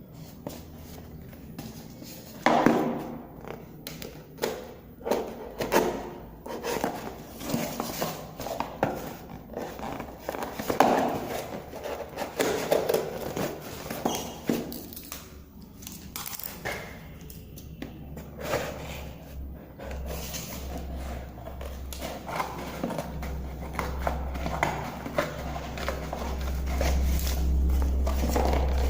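Hands handling and opening a small product box: irregular rustling, crinkling of packaging and light knocks and taps. A low rumble builds in the last several seconds.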